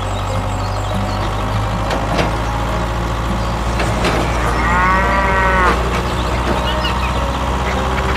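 Steady low mechanical hum, with a cow mooing once for just over a second about halfway through.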